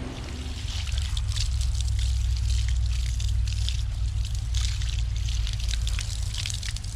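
Water spraying through a race car radiator's fins and spattering and trickling off, washing caked dirt out of the core, over a steady low hum. The spray gets louder about a second in.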